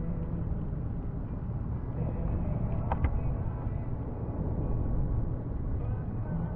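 Snowplow truck running: a steady low engine and road rumble, with one sharp knock about three seconds in.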